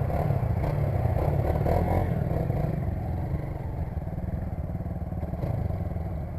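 Motorcycle engine running steadily, easing off a little in the second half.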